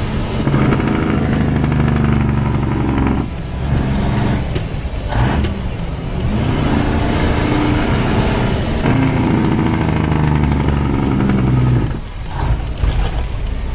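Semi truck's diesel engine running with the engine compression brake (Jake brake) engaged, heard from inside the cab: a loud, steady engine note that breaks off briefly about three seconds in, again around five seconds, and near the end, with the pitch climbing again after the second break.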